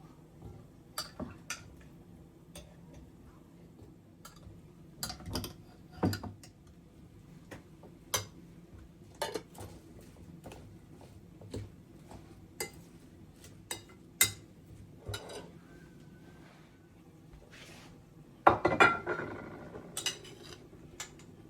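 Kitchen dishes and utensils being handled: scattered clinks and knocks at irregular intervals, with a louder clatter near the end.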